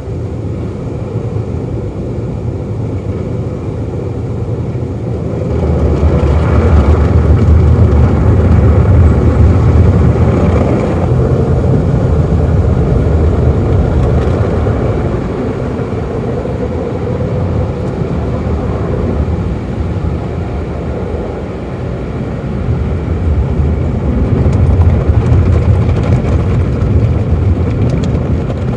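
Car wash tunnel machinery heard from inside a car: a loud, steady low rumble and wash of noise. It swells about six seconds in and again near the end.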